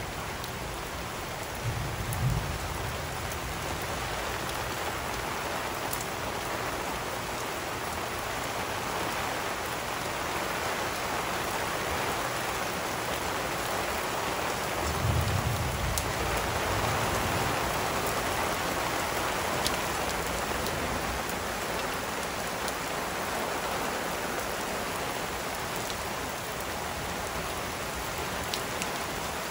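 Heavy rain pouring steadily, with a few sharp drip ticks and two short low thumps, about two seconds in and again about fifteen seconds in.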